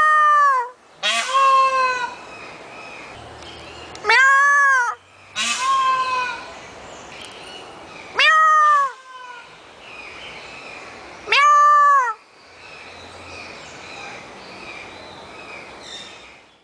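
Indian peafowl (peacock) calling: four loud, arched, wailing calls about four seconds apart, several of them followed by a softer answering call.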